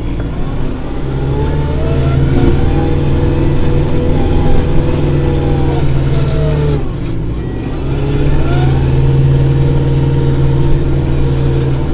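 Kubota tractor's diesel engine running steadily, with a brief dip in level about seven seconds in before it picks back up.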